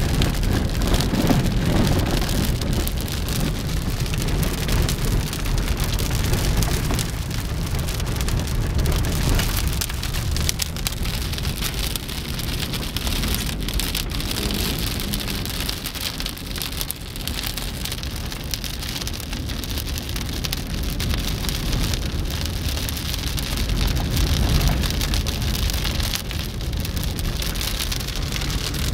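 Moderate to heavy rain falling steadily, a dense hiss of drops with a low rumble underneath.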